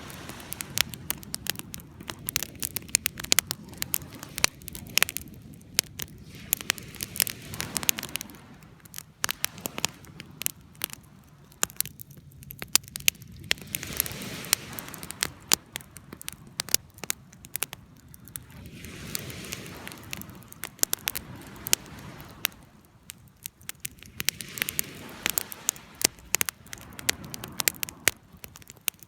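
Wood campfire crackling, with many irregular sharp pops and snaps over a hiss that swells and fades every few seconds.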